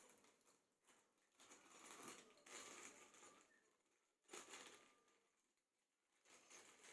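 Near silence with faint rustling of packaging being handled, in three short stretches.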